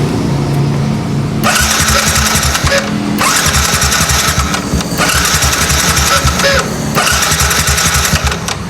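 Yamaha motorcycle electric starter pressed about four times in a row, each run of cranking lasting about a second and a half with a harsh grinding hiss over fast pulsing, after a steady hum at the start. This is the strange starter noise that the mechanic puts down to a dirty, rusted, sticking starter motor or a worn starter bearing.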